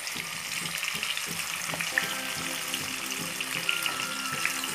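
Marinated chicken sizzling as it is dropped into hot oil and ghee in a frying pan, a steady frying hiss with small crackles. There is one sharp tap about two seconds in.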